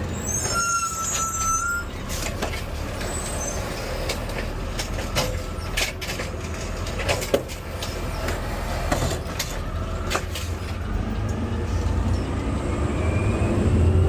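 Refuse truck engine running, heard from inside the cab, with scattered knocks and rattles and a brief steady high squeal about a second in. Near the end the engine note rises and gets louder.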